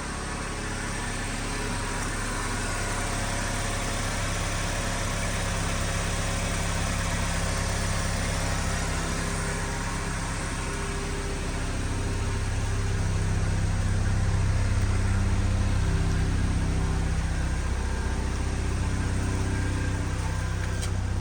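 2009 Pontiac Solstice's 2.4-litre four-cylinder engine running steadily at idle, growing louder about halfway through.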